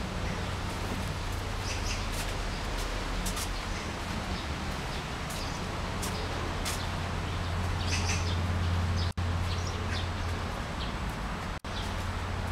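Scattered short bird chirps over a steady low rumble, with the rumble swelling a little past the middle; the sound drops out for an instant twice near the end.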